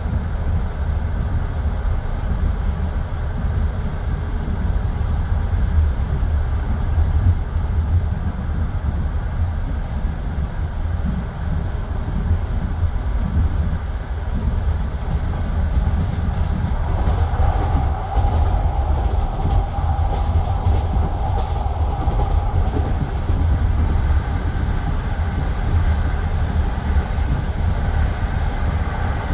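Passenger train carriage running along the track, a steady rumble of wheels on rail with faint clicks over the joints. A faint higher whine rises in the middle of the stretch and then fades.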